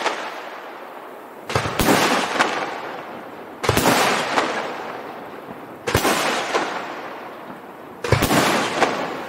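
Aerial firework shells bursting overhead: four bursts about two seconds apart, the first a double bang. Each sharp bang trails off over a second or two with a fading crackle.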